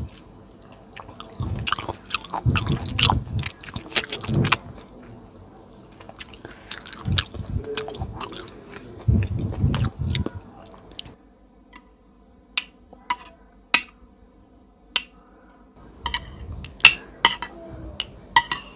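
Close-miked chewing and biting of soft food, in irregular bursts, with a quieter stretch past the middle broken by sharp single mouth clicks.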